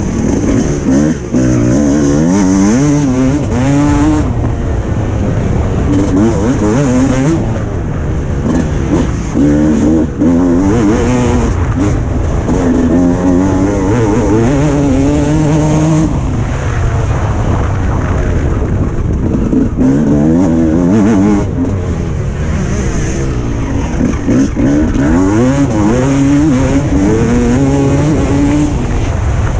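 Suzuki RM 300cc two-stroke motocross bike's engine, revving hard and falling back over and over as it accelerates, shifts and brakes around the track, heard onboard.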